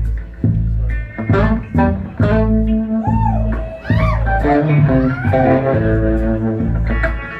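Live country-folk band music between vocal lines: plucked guitar over bass, with a few notes bending up and down in pitch around the middle.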